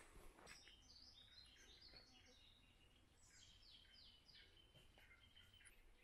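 A small songbird singing faintly: a run of quick, high chirping notes, with three or four short falling notes in a row about three seconds in.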